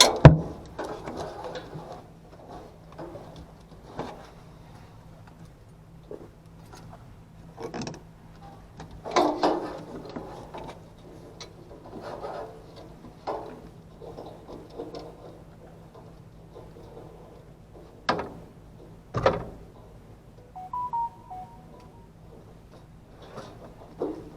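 Intermittent clicks, knocks and rustling from hand work on an HVAC unit's parts, over a faint steady hum, with a short stepped electronic beep about 21 seconds in.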